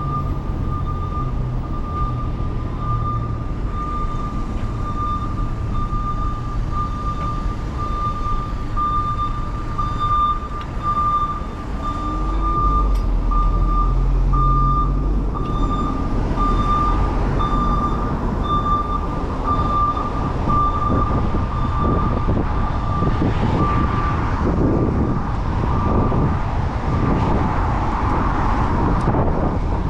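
A high electronic beep repeating evenly, over street traffic rumble and wind noise. The traffic rumble grows louder in the second half.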